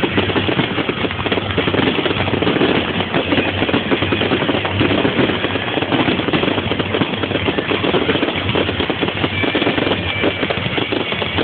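Fireworks crackling and popping in a dense, rapid, unbroken string.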